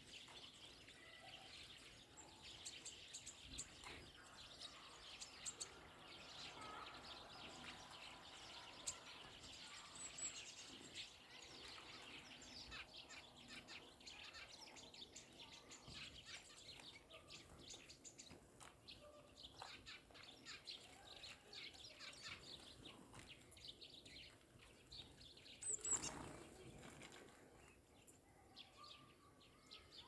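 Small songbirds chirping faintly, with many short, high chirps overlapping, and one louder, sharper sound about 26 seconds in.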